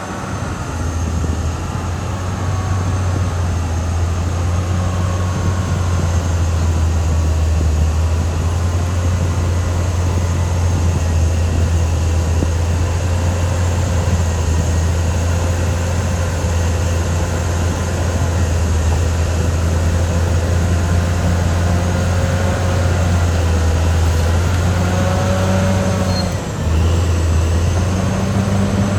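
Caterpillar D6R XL crawler bulldozer's diesel engine running steadily under load, a deep constant drone with faint wavering squeals above it. Near the end the engine note dips for a moment and picks up again.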